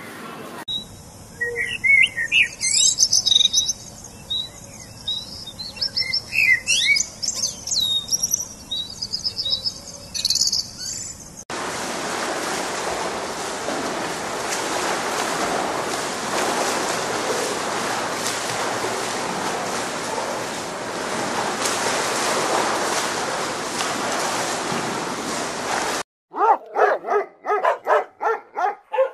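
Small birds chirping and calling for about ten seconds, then a steady rushing noise. Near the end, a boxer dog barks in quick repeated barks, about four a second.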